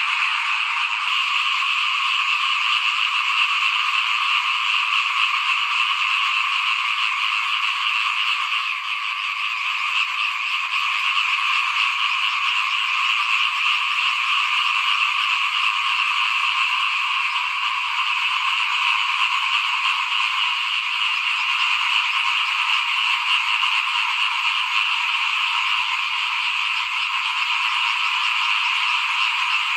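Dense, steady chorus of many small rice-paddy frogs (khiat) calling together, a continuous high-pitched din with no pauses.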